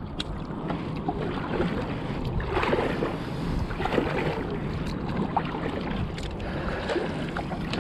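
Wind buffeting the microphone over water lapping around a kayak, with scattered light knocks and rustles as a crab-pot buoy and its rope are handled aboard.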